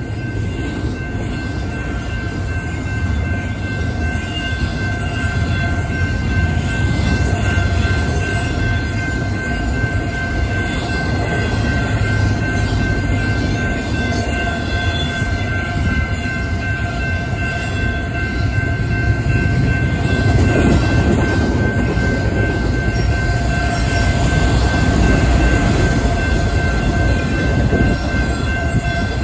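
Freight train cars, double-stacked intermodal container wells and then autorack cars, rumbling steadily past at a grade crossing, with steady high tones running over the wheel noise. The rumble grows louder in the second half.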